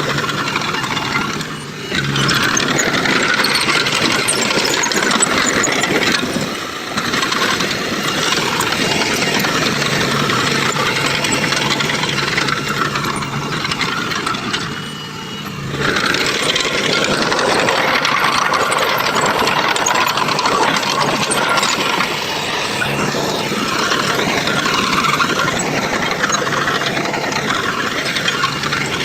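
Heavy construction machinery engines running, a dense steady mechanical noise that briefly drops in level about two, seven and fifteen seconds in.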